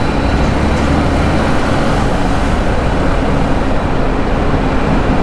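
Heavy trucks and a motorcycle running through a road tunnel: a steady low engine rumble under an even rush of road noise.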